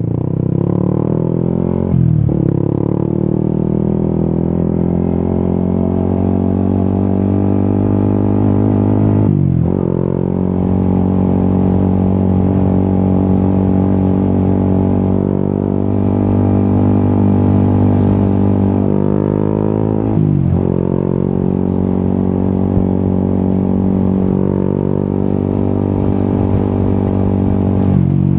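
Yamaha XSR 155's single-cylinder engine through an Akrapovic exhaust, pulling under acceleration while riding. The pitch climbs in each gear and dips briefly at four upshifts, about two seconds in, near ten seconds, near twenty seconds and near the end.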